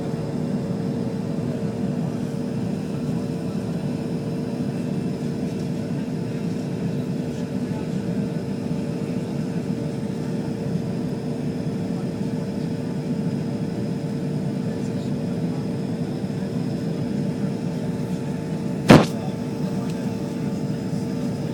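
Steady cabin drone of a Bombardier CRJ200's rear-mounted turbofan engines and airflow during descent, with a steady hum running through it. A single sharp knock comes near the end.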